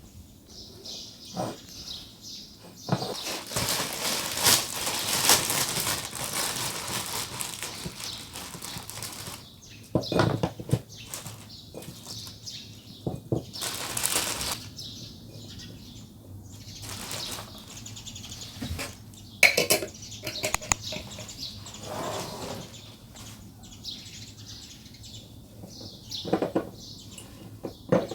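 Irregular rustling and handling noises, with several short sharp clicks or knocks among them, the loudest about ten seconds in and again near the middle and toward the end.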